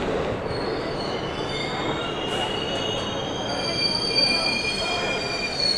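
Train wheels squealing against the rails as a train rolls past: several high, steady squealing tones that come in about half a second in and grow louder, over the train's rumble.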